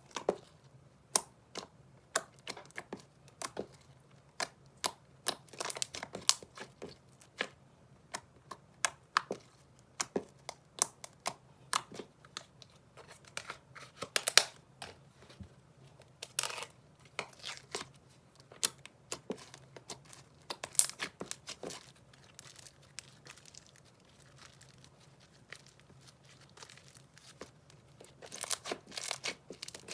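Slime being squished, stretched and poked by hand, giving irregular sharp sticky clicks and pops, some coming in quick clusters.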